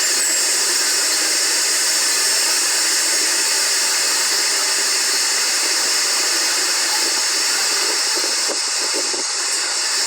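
Steady rushing hiss of moving air, even and unbroken, with a slight dip near the end.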